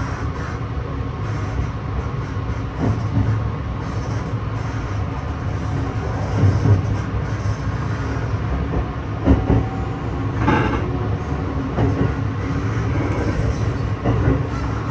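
Sunrise Izumo 285-series sleeper train running, heard from inside the carriage: a steady low rumble with a few separate knocks and clatters from the wheels and running gear.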